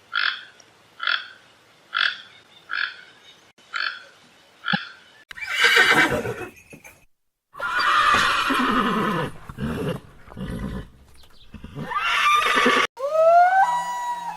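A frog croaking in short calls about once a second for the first five seconds. After that, a horse neighs and whinnies in several loud calls. Near the end, a sliding, wavering tonal call begins.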